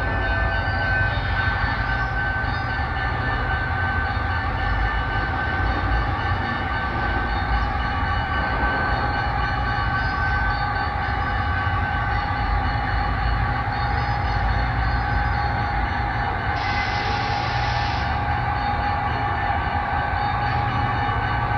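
Diesel locomotive running steadily: a constant low rumble with held engine tones, and a short hiss about three-quarters of the way through.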